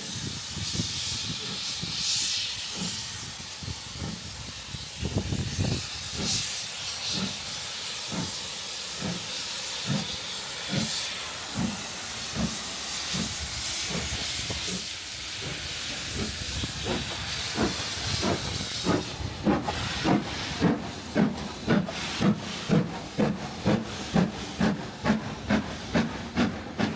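Steam train running past: a steady hiss of steam with a few louder puffs. A regular beat starts about five seconds in and quickens to about two a second, loudest near the end.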